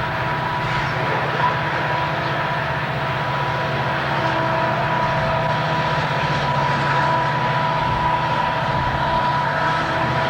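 Diesel freight locomotives running past, a steady engine drone with a high steady whine over it.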